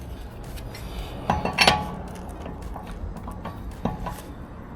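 Metal clinks and knocks of a wheel wrench being fitted to and worked on a car's wheel nuts to loosen them, the loudest about one and a half seconds in and another near the end.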